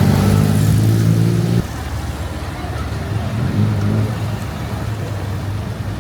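Motor vehicle engine running close by, cutting off suddenly about a second and a half in, followed by a quieter engine hum over steady street traffic noise.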